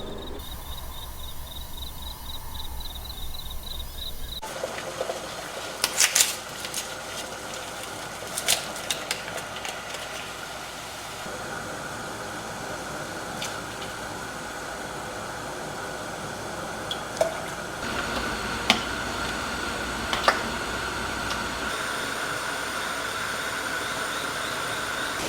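Kitchen cooking sounds: a steady wash of liquid noise with scattered sharp clicks and knocks of utensils or cookware, in several short takes cut together.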